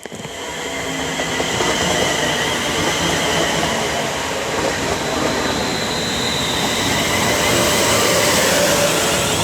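Class 350 Desiro electric multiple unit running along the platform: steady wheel-on-rail noise building up over the first couple of seconds, with faint whining tones from its traction equipment.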